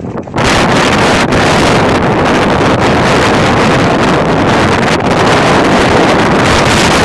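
Strong monsoon wind blasting across the microphone, a loud steady rush that comes up sharply about half a second in.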